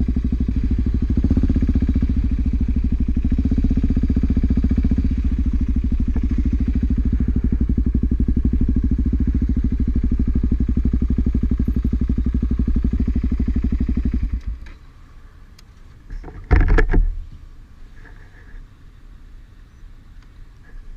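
Motorcycle engine running steadily, then shut off about fourteen seconds in. A couple of seconds later comes one short, loud thump.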